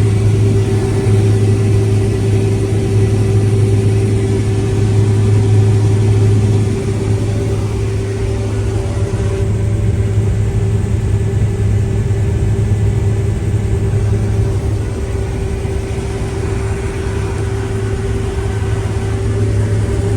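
Engine of a large farm machine running steadily at working speed, a constant low drone with a steady hum above it; it drops slightly in loudness about seven seconds in.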